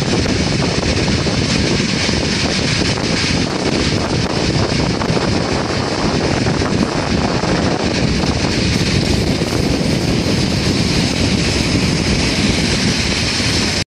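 Flåm Railway passenger train running along the track, a steady rumble and rush of wheels and carriage heard from inside the coach.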